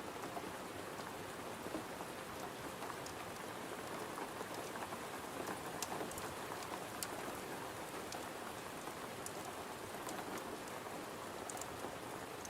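Steady rain tapping on a window, with scattered sharp high ticks through it.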